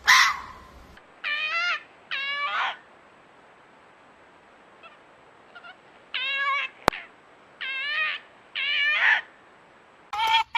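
Fox calling: one loud harsh scream right at the start, then five high, wavering calls, each about half a second long. Two of them come close together, and the other three come in the second half. A single sharp click falls between the later calls.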